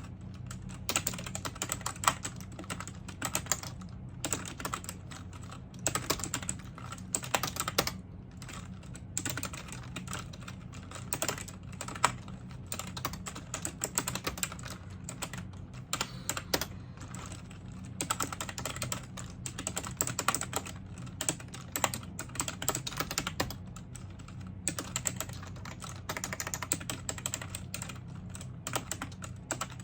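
Typing on a computer keyboard: rapid keystroke clicks in runs, broken by short pauses, over a steady low hum.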